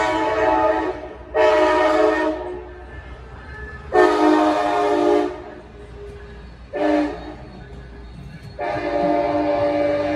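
Coaster commuter train locomotive's air horn sounding a series of blasts over a low engine rumble: one ending about a second in, then long, long, short, long, the pattern of a grade-crossing signal.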